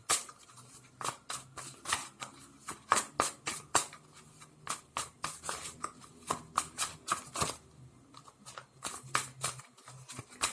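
Tarot cards being shuffled by hand: a quick, irregular run of sharp card snaps and clicks, a few a second.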